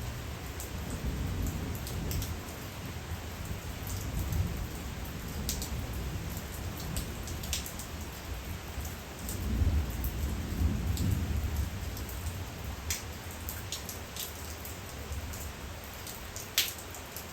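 Steady rain at night, with scattered sharp taps of single drops hitting a hard surface. Twice a low rumble swells and fades, once about a second or two in and again, louder, about ten seconds in.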